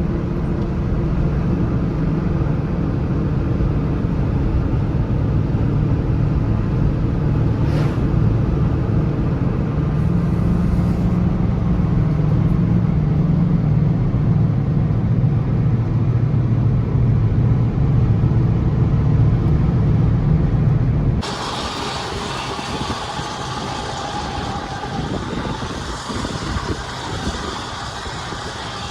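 Pickup truck driving, a steady low engine and road drone. About 21 seconds in it cuts off suddenly to quieter vehicle noise with much less low rumble.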